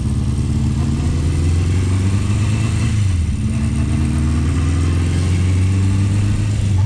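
1976 Honda CB400/4 Super Sport's air-cooled four-cylinder engine running steadily, its pitch dipping briefly about three seconds in and then picking up again. It is running not quite right, which is put down to a fouled spark plug.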